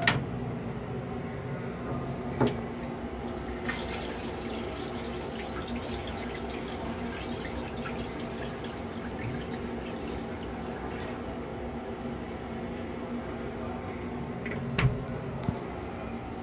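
Sink faucet in an M3 railcar restroom running water for several seconds over a steady hum. A sharp knock comes at the start, another a couple of seconds in, and two more close together near the end.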